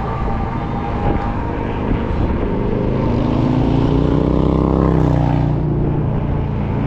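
Road traffic heard from a moving e-bike, with wind noise on the microphone. About three seconds in, a motor vehicle passes close by, its engine tone swelling and dropping slightly in pitch as it goes past.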